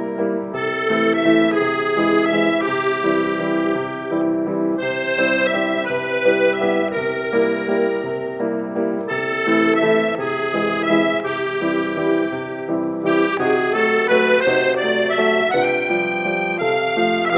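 Accordion music: sustained chords and a melody played in phrases.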